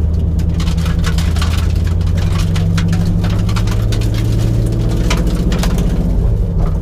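1989 Mustang GT's 5.0 V8 running at a steady idle, heard from inside the cabin, its pitch shifting slightly about six seconds in. Irregular clicking and rattling sounds over it.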